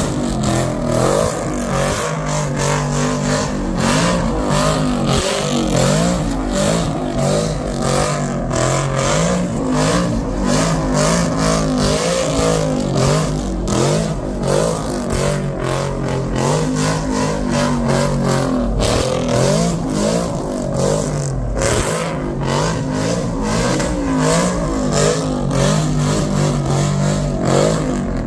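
Car engine revving hard at high rpm, the pitch climbing and dropping again and again, over a dense rushing noise.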